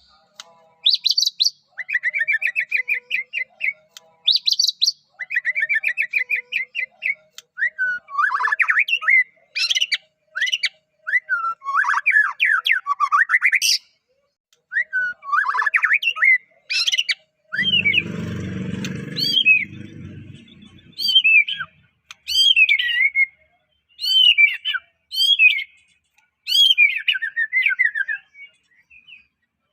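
White-rumped shama (murai batu, Medan type) singing a run of varied phrases: fast trills, rising and falling whistled slurs and short sharp notes, with brief pauses between them. About 18 seconds in, a low muffled noise lasts a couple of seconds under the song.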